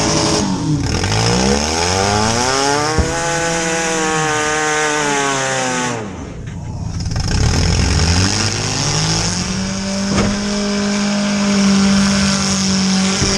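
Compact demolition derby car's engine, heard from inside the stripped-out cabin, revving up and falling off again and again as the car is driven back and forth, then held at high revs for the last few seconds. A couple of brief sharp knocks are heard.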